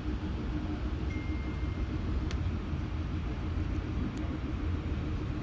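Passenger train running along the track, heard from inside the carriage: a steady low rumble. A faint high-pitched tone sounds briefly about a second in, and two light clicks come later.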